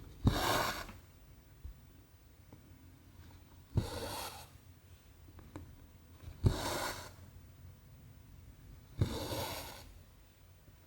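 Needle and cotton thread pulled through 14-count cross-stitch canvas, four times: each stitch a sharp tick as the needle pierces, then a short rasp of thread drawn through the fabric.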